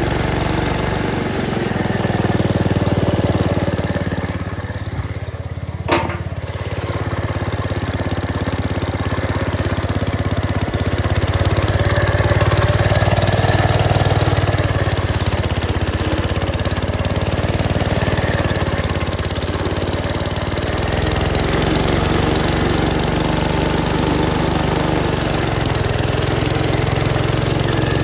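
Gravely Commercial 10A walk-behind tractor engine running under load while driving its dog eater snowblower attachment. The level swells and eases as it works. A single sharp knock comes about six seconds in.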